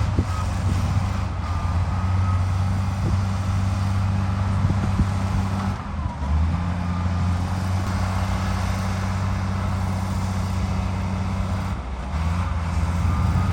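Heavy diesel construction machinery running with a steady low drone and a faint high whine above it. The engine note shifts about six seconds in and again about twelve seconds in.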